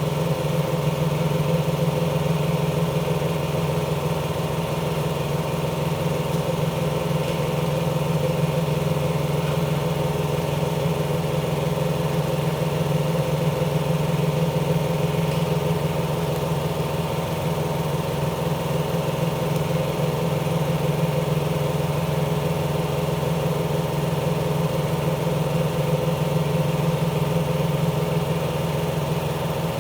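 A motor running steadily at one speed, with a constant low hum and no revving or breaks.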